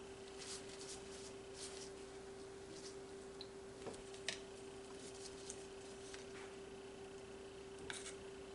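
Faint clicks and soft squishy sounds of small plastic paint cups being handled and acrylic paint being poured, over a steady low hum.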